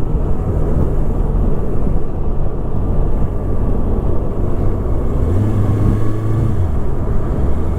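Motorcycle running at a steady speed, its engine note mixed with heavy wind rush on the helmet-mounted microphone. The engine tone changes briefly a little past halfway.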